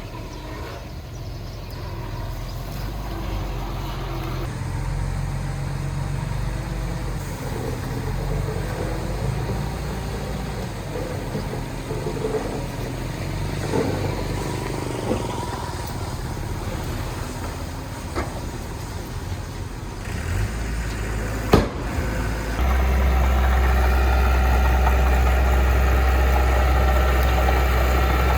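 Heavy-equipment diesel engine running steadily, with a sharp knock about three-quarters of the way in, followed straight after by a louder, steadier engine drone.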